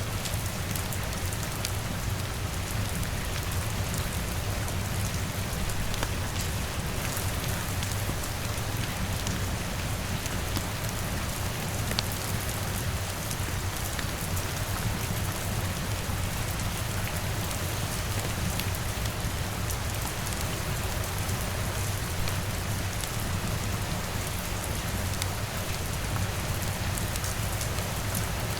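Steady rain with scattered sharp drop clicks throughout, over a steady low rumble.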